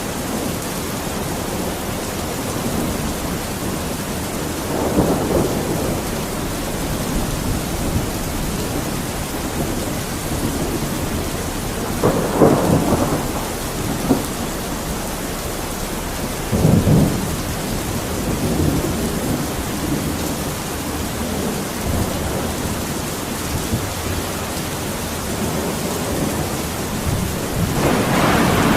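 Thunderstorm: steady rain with rolls of thunder rumbling up several times, the heaviest near the end.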